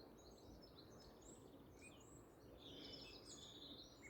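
Faint birdsong: several small birds chirping, with a quick trill about a second in and a stronger trill about three seconds in, over a low steady background noise.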